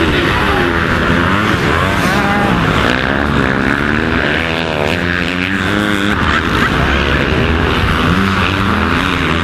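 Several motocross bike engines revving up and down together, their pitch rising and falling as the riders work the throttles and shift through the gears.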